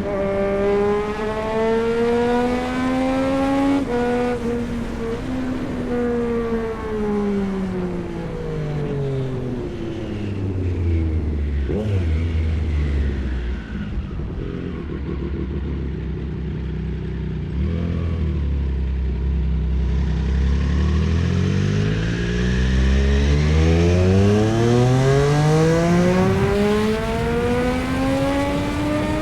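Triumph Street Triple 765 RS inline-three engine revving up, its pitch stepping down slightly about four seconds in, then winding down steadily as the bike slows to low revs. It holds low for several seconds, then climbs again as the bike accelerates.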